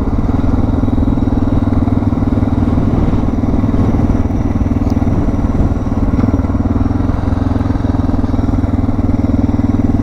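Suzuki DR650's single-cylinder four-stroke engine running steadily as the motorcycle is ridden, heard from the rider's position.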